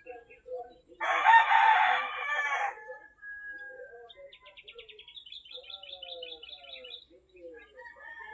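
A rooster crows once, loud and harsh, about a second in, lasting nearly two seconds. Small birds chirp around it, with a rapid trill in the second half.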